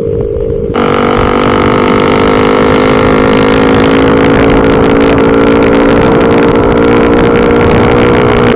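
Bajaj Pulsar RS200's single-cylinder engine running at a steady high speed under load, its pitch holding level, with rushing wind noise on the rider's microphone. The engine and wind noise get louder about a second in and then hold steady.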